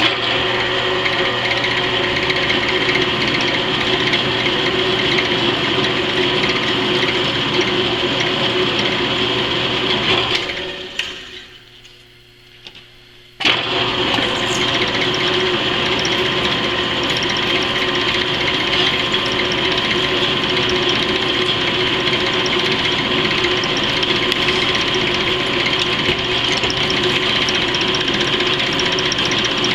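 Power drill running steadily as it drills a hole in a steel plate. It winds down about ten seconds in, stays off for about three seconds, then starts again abruptly and runs on.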